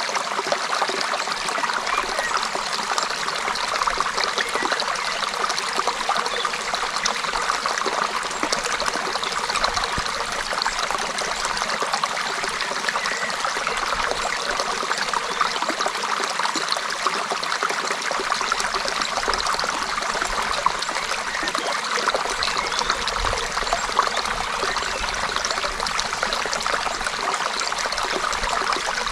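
Creek water running and trickling over stones: a steady, even babble with fine splashing detail.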